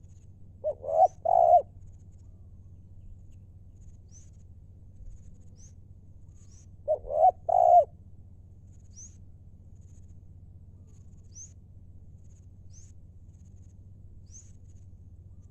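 Spotted dove cooing: two phrases of about three notes each, some six seconds apart, with faint short high chirps from another small bird in between.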